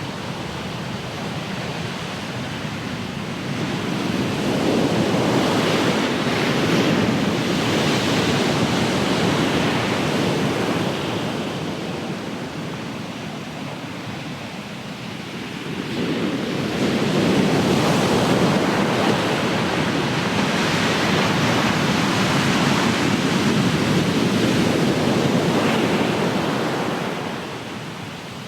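Ocean surf: two waves break and wash in. The first swells about four seconds in and eases off before the middle, and the next builds just after the middle and dies away near the end.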